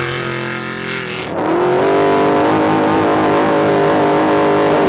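Trophy truck engine running hard at high revs, with a rushing noise over it. About a second in the sound changes abruptly: the rushing drops away and the engine note climbs, then holds steady at high revs.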